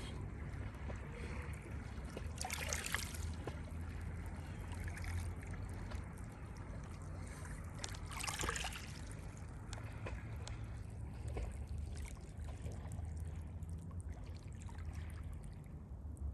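Sea surf: a steady low rumble of waves, with two brighter hissing washes of breaking water, about three seconds in and again about eight seconds in.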